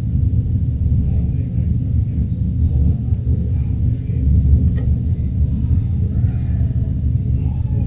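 Steady low rumble, with a faint click about halfway through.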